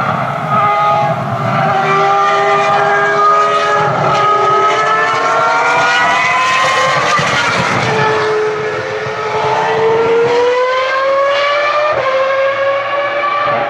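High-revving Ferrari racing car engine accelerating hard, its pitch climbing steadily and dropping back briefly about every four seconds as it shifts up through the gears.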